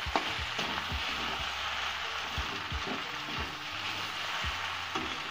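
Macaroni and chopped vegetables sizzling in a hot pan as they are stirred, with irregular knocks and scrapes of the spatula against the pan.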